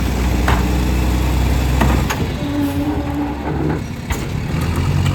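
Garbage truck engine running with a heavy low drone that drops away about two seconds in, with several sharp metallic knocks.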